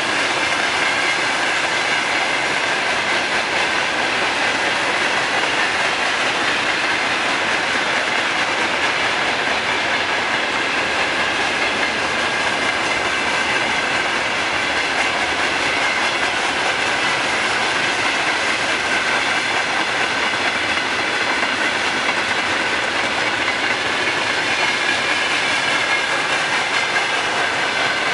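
Freight train wagons rolling past at speed, wheels clattering steadily over the rail joints with a thin squeal or ring from the wheels on the rails.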